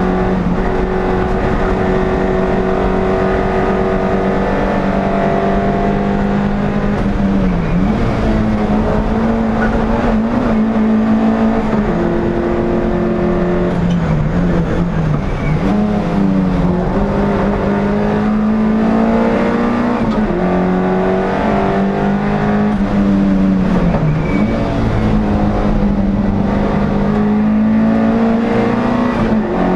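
NSU TT's air-cooled four-cylinder engine running hard at high revs, heard from inside the racing car. The revs dip briefly and climb back three times, as the car lifts or shifts for corners.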